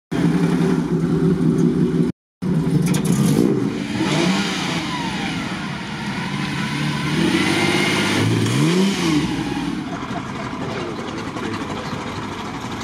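Classic car engines moving slowly past at low revs: first a vintage Mercedes-Benz roadster's steady low engine note, then, after a cut, another car's engine revved up and eased back, once about four seconds in and again more sharply around eight seconds in.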